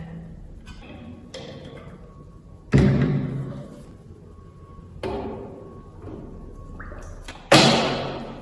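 A series of heavy thuds, three of them loud, each fading away over about a second. The sound cuts off abruptly at the end.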